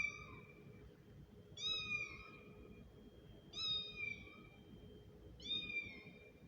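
Kitten meowing: four high, short meows about two seconds apart, each falling slightly in pitch at the end and nearly identical in shape, as from a played kitten sound recording.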